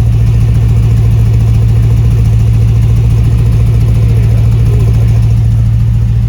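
1957 Chevy truck restomod's engine idling loud and steady, with an even low throb. It sounds smooth.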